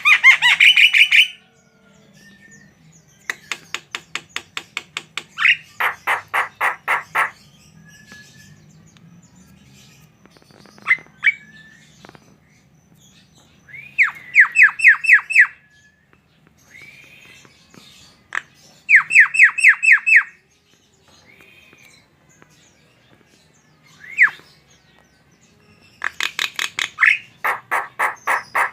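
Javan myna (jalak kebo) calling. It gives several bursts of rapid, evenly repeated harsh notes, each lasting one to two seconds, with single short chirps between them.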